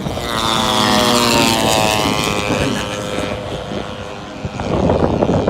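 A radio-controlled model airplane's propeller engine flying past, its pitch sliding down and then up again before fading. A louder, rough rushing noise comes in near the end.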